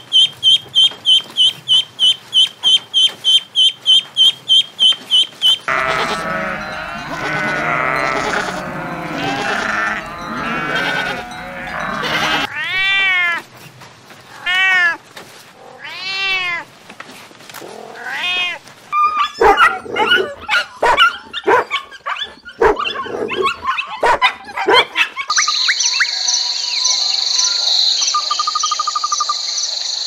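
Ducklings peeping: a fast run of short high peeps, about four a second, that stops suddenly about six seconds in. Other animal calls follow in turn: a run of rising-and-falling cries, then short clicking calls, and near the end a steady high ringing with a brief trill.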